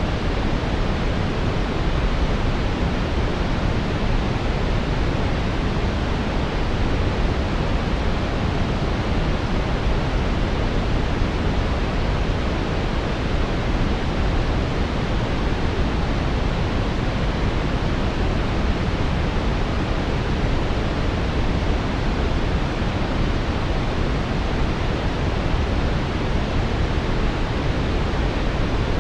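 Steady brown noise: a deep, even rushing hiss, strongest in the bass and falling away toward the treble, with no change throughout.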